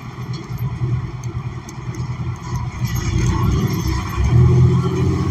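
New Flyer XN40 city bus with a Cummins Westport ISL G natural-gas engine, heard from inside the bus: a steady low engine and road rumble that grows louder about three seconds in as the bus pulls harder.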